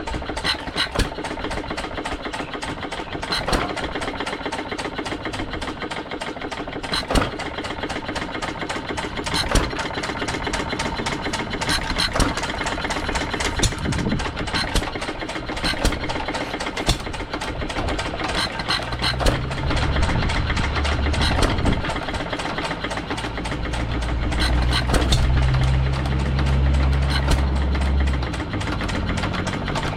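Antique single-cylinder hit-and-miss gas engines running together, their firing strokes heard as sharp, irregularly spaced pops over a steady mechanical clatter. A strong low hum joins about two-thirds of the way in and fades near the end.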